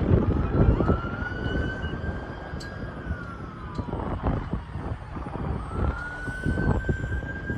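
Twin electric ducted fans of an E-flite A-10 model jet whining, the pitch rising and falling as the throttle is worked on a landing approach: up and held, pulled back a little past halfway, then up again near the end. Gusty wind buffets the microphone throughout.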